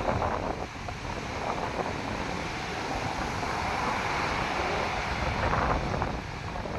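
Ocean surf breaking and washing up a beach, with wind buffeting the microphone. The waves are coming in strong, with a swell about five seconds in.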